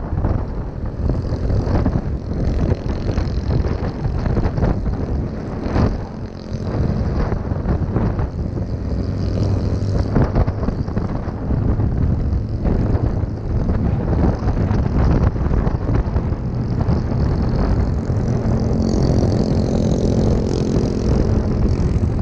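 Wind buffeting the microphone of a moving motorbike, a loud, gusty rumble, with the bike's small engine running underneath and coming through more clearly near the end.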